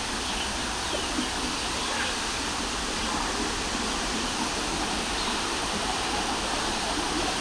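Steady rushing of falling water, as of a waterfall, with faint short high-pitched calls now and then.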